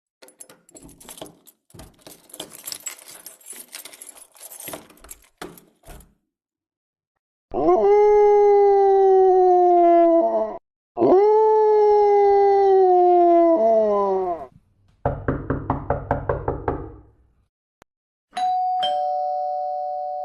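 A run of separate sound effects: a crackling, scratchy noise for about six seconds, then two long howls that each slide down in pitch, a short rapid buzzing rattle, and near the end a two-tone doorbell chime that rings on and fades.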